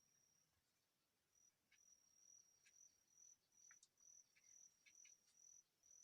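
Faint, high, thin insect trill: a steady tone that breaks into short repeated pulses from about a second and a half in, with a few faint ticks or chirps among them.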